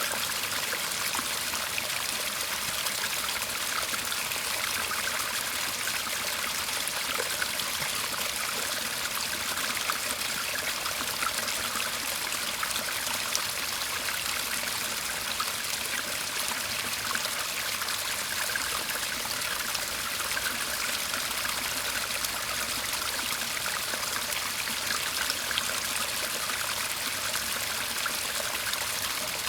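Small shallow garden stream murmuring steadily, a constant trickling rush of water.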